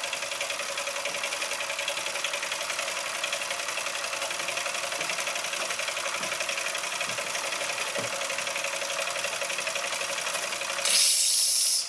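Bing-Wolf twin-cylinder toy steam engine running steadily at full speed, a fast, even mechanical clatter. Near the end its steam whistle blows for just under a second, a breathy hiss rather than a clear note: not a very good whistle.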